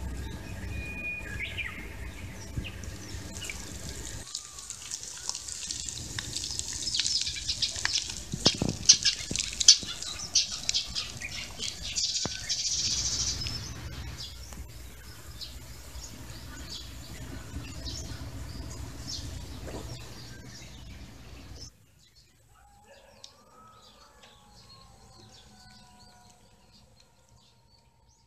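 Outdoor garden ambience with small birds chirping, busiest in the middle. The sound changes abruptly about four seconds in. After about twenty-two seconds it drops much quieter, leaving a few faint calls that rise and fall in pitch.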